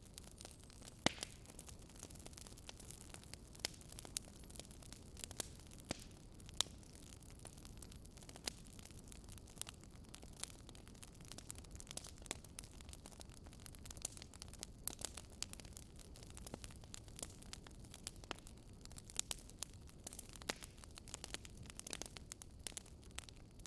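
Wood fire burning in a fireplace: a low steady hiss with many sharp, irregular crackles and pops.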